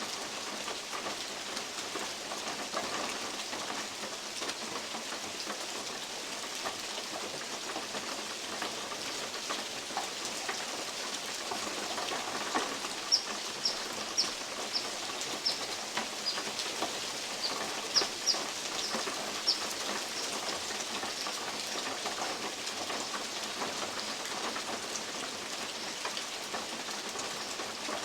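Steady rain in a forest, with big drops from oak leaves ticking now and then on a metal roof. About halfway through, a bird gives a run of a dozen or so short, high chips over several seconds.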